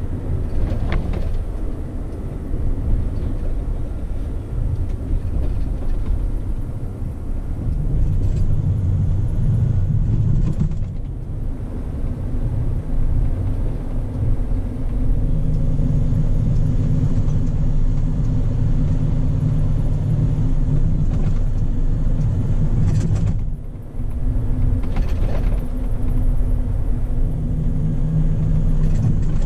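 Scania P400 truck's inline six-cylinder diesel running steadily under way. The engine note dips briefly twice, about 11 and 24 seconds in, and changes pitch between these stretches.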